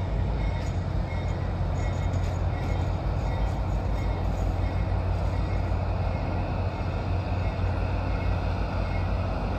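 Mount Hood Railroad passenger train rolling slowly past, a steady low rumble.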